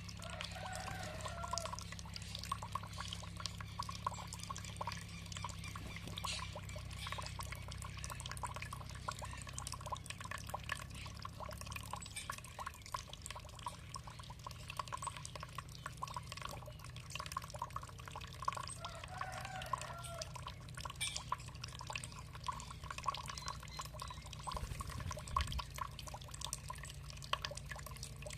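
Running water trickling and splashing steadily with many small drips. A short bird call comes twice, about a second in and again near 19 seconds.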